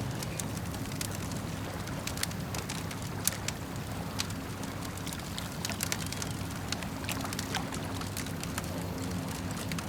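Wood campfire crackling with frequent irregular sharp pops, the loudest a little after three seconds in, over a steady low wash of lake water lapping.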